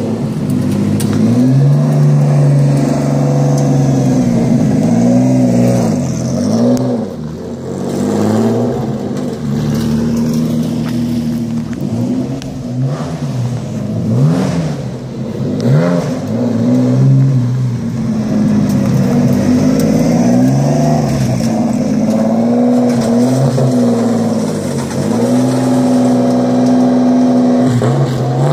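Porsche 917/10 replica's engine driving around, its pitch climbing and dropping back again and again as it revs and eases off, with a few stretches of steady held revs.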